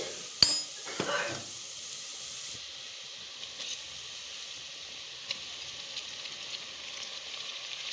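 Sliced onions and raw beef pieces frying in hot oil in a pressure cooker, a steady sizzle. A sharp metal clink about half a second in and a short scrape around a second in come from the perforated steel spoon working against the pot.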